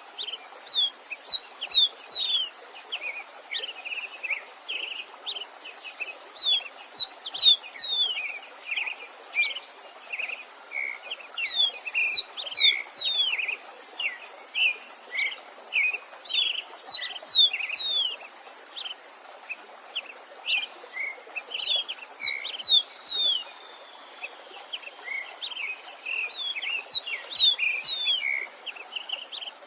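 A songbird sings the same short phrase over and over, about every five seconds: a few quick sharply falling high notes, then a run of lower chirps. A faint steady hiss of running water lies underneath, and a thin, high, broken tone sounds in the first few seconds.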